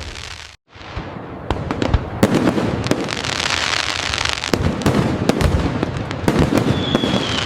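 Fireworks display: a rapid string of bangs and pops, with a dense patch of crackling about three seconds in and a whistle sliding down in pitch near the end. It cuts to silence for a split second early in the stretch.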